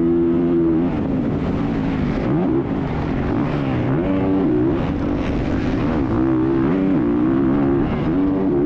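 Dirt bike engine revving as it is ridden: the pitch climbs and falls back again and again, every second or two, as the throttle is opened and closed.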